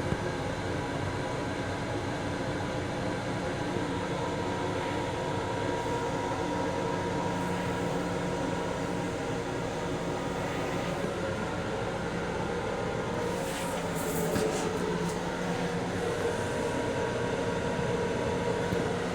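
Interior noise of a Long Island Rail Road M7 electric railcar heard from inside its restroom: a steady rumble with a steady hum, with a few brief clicks or rattles about thirteen to fifteen seconds in.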